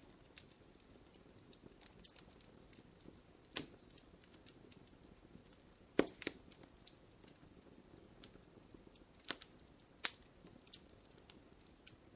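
Wood fire burning in a fireplace: a soft steady hiss with scattered sharp crackles and pops, a few louder snaps spread through it.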